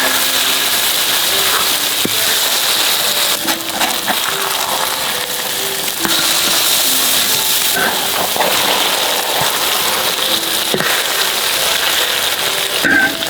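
Food sizzling and crackling steadily as it fries in hot oil.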